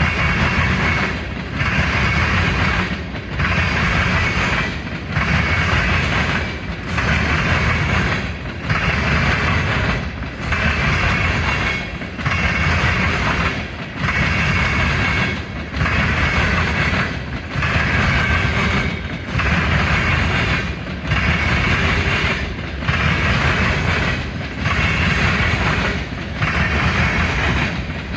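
Train rolling past at a steady speed, a continuous rumble and rail noise that dips evenly about every second and a half as each car goes by.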